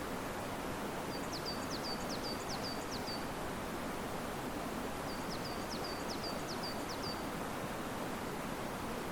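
Steady rush of river water and wind in riverside trees. A small bird sings a quick phrase of six or seven high, down-slurred notes twice, about a second in and again about five seconds in.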